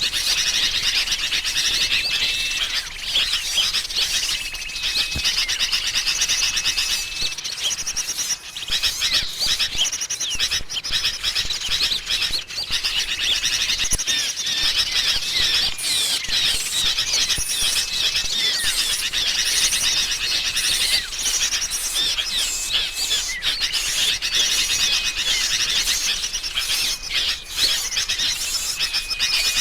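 Bird-luring recording of agitated sooty-headed bulbul (kutilang) chatter mixed with other small songbirds: a dense, unbroken tangle of quick high chirps and trills, with short steady whistled notes recurring every few seconds.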